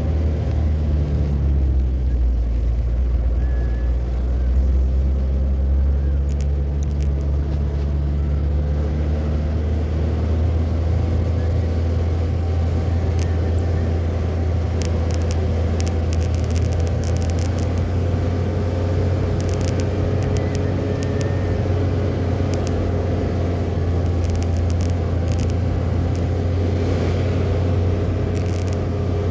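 Car driving on the road: a steady low engine and road rumble, the engine's pitch shifting during the first several seconds, with scattered light clicks through the second half.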